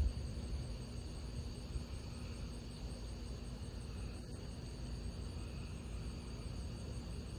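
Steady chorus of crickets, a thin continuous high drone, over a low steady rumble.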